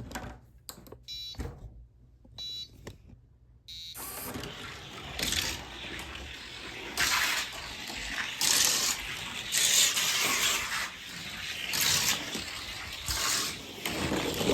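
Three short electronic countdown beeps about a second apart, then a die-cast Johnny Lightning car rolling down a long plastic toy race track for about ten seconds: a steady rushing of small wheels on track, with louder surges every second or so.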